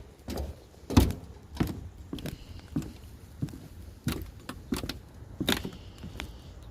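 Footsteps of someone walking at an even pace, about one and a half steps a second.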